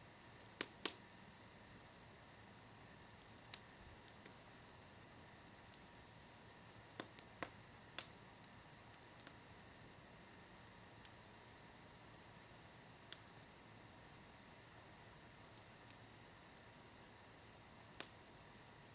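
Wood campfire crackling quietly: scattered sharp pops and snaps over a faint steady hiss, with a loud single pop near the end.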